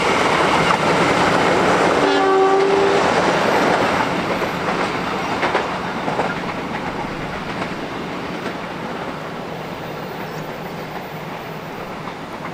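Passenger train running away on the rails, its wheel and rail noise fading as it goes. About two seconds in, a train horn sounds once for about a second.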